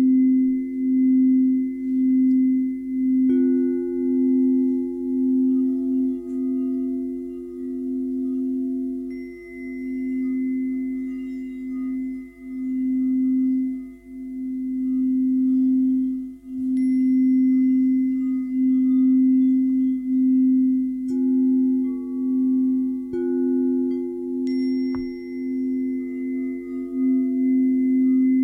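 Singing bowls ringing: a loud, sustained low bowl tone that wavers in a slow pulse, joined about three seconds in by a second, higher bowl tone. More bowl tones come in twice in the latter part, over faint, high ringing overtones that come and go.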